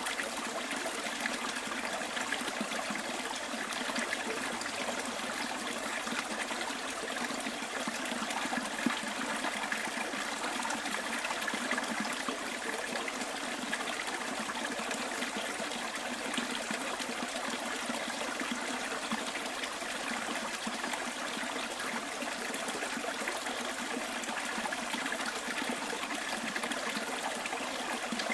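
Stream flowing steadily: a continuous, even trickle and rush of water.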